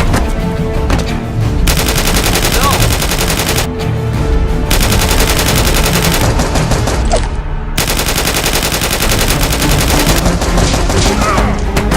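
Long bursts of rapid automatic gunfire with short breaks between them, over background music.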